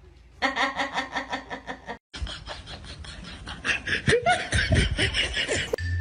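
People laughing: a quick run of repeated ha-ha pulses, then after a short break more laughter.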